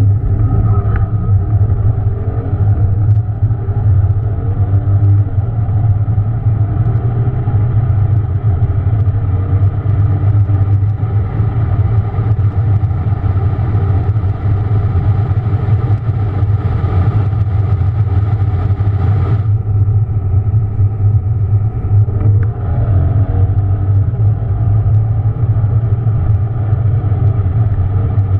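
Mercedes-Benz S600 twin-turbo V12 running continuously, a loud, steady deep drone with its engine note wavering slightly in pitch. A hiss comes in over it and stops about 19 seconds in.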